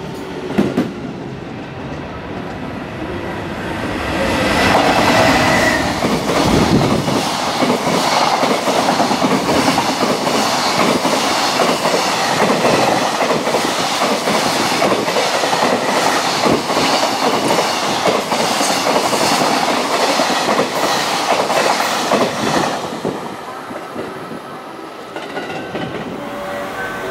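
Freight train of container flatcars passing close by at speed, its wheels clattering over the rail joints in a fast, continuous run of clicks. It builds about four seconds in and dies away near the end as the last wagons go by.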